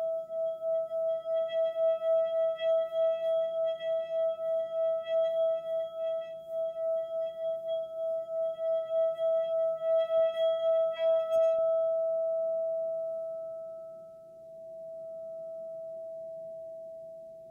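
A single sustained ringing tone with a quick wavering pulse and fainter higher overtones, like a singing bowl. About twelve seconds in, the overtones and pulsing stop and a plain pure tone rings on, slowly swelling and fading.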